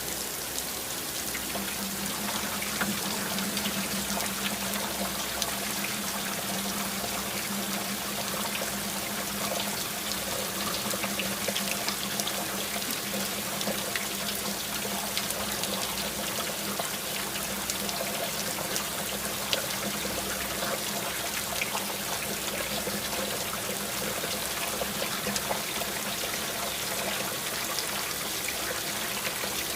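Steady rainfall with many single drops ticking, and water running and trickling. A low steady hum comes in about one and a half seconds in and holds.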